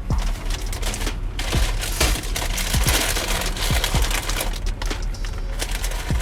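Crackling, crinkling rustle of handled paper or plastic, with many small clicks and knocks throughout.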